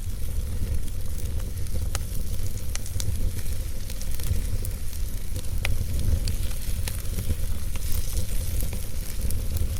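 Log fire burning in a fireplace, crackling with scattered sharp pops and snaps over a steady low rumble and hiss of the flames.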